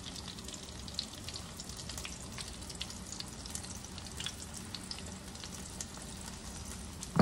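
Thick slices of deli bologna sizzling in a skillet: a steady frying hiss with scattered small pops and crackles. A sharp tap sounds right at the end.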